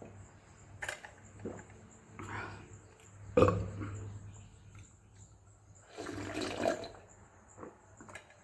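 A person eating watery fermented rice (pazhaya sadam): wet chewing and slurping with a few small clicks, a sharp knock about three and a half seconds in, and a longer wet slurp about six seconds in.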